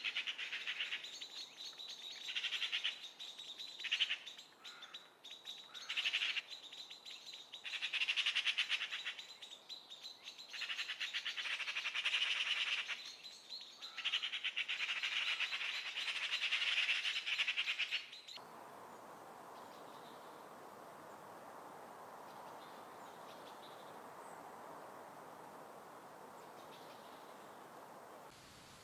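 European goldfinch singing: long, rapid twittering phrases broken by short pauses. About two-thirds of the way through the song stops abruptly and a steady hiss remains, with only a few faint chirps.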